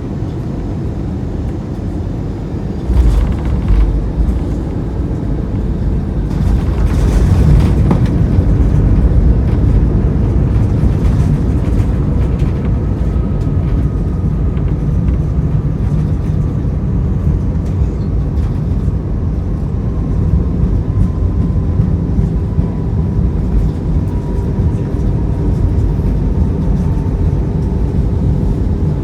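Airbus A319 cabin noise on landing: a sudden jolt about three seconds in as the wheels touch down, then the engine roar swells under reverse thrust and eases off. A faint whine falls slowly in pitch as the jet engines spool down during the rollout.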